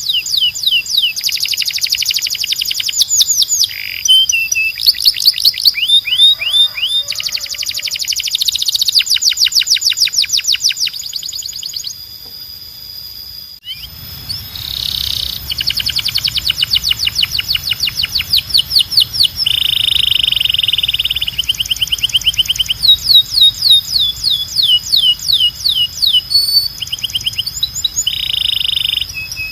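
Belgian canary singing: long rolls of rapid repeated notes and trills, with a brief break about halfway, after which a low hum runs under the song.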